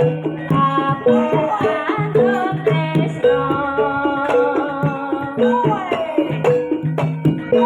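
Jaranan barongan accompaniment music: hand drums beat a quick, steady rhythm under a sliding, wavering melody line.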